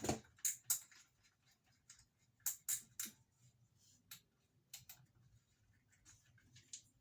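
Irregular light clicks and taps from tools and materials being handled, busiest in the first three seconds and sparser after.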